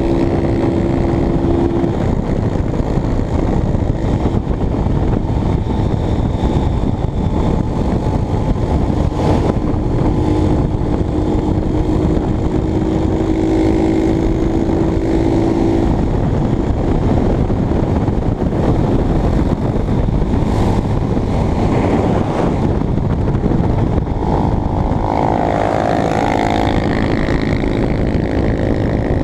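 Honda CBX 250 Twister's single-cylinder engine running steadily while riding, under heavy wind noise. The engine note holds for stretches and then shifts.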